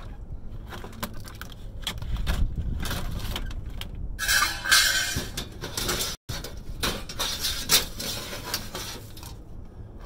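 Scrap metal being handled, with repeated clanks and knocks. A louder stretch of scraping and rattling comes in the middle, and the sound cuts out for a moment about six seconds in.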